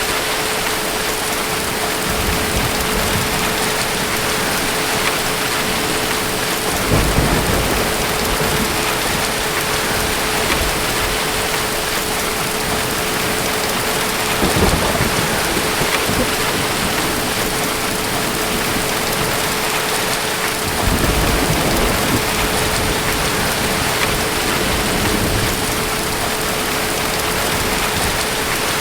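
Steady heavy rain with low thunder rumbling three times: about a quarter of the way in, near the middle, and about three-quarters through. A faint steady hum-like tone runs underneath.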